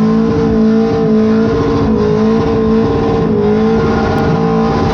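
A drift vehicle's engine held at high revs, its pitch steady with slight wavering as the driver works the throttle while smoking the tyres.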